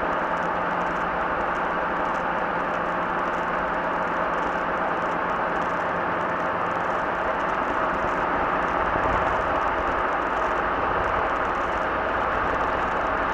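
Robinson R22 helicopter's piston engine and rotors running steadily, flown with the governor switched off.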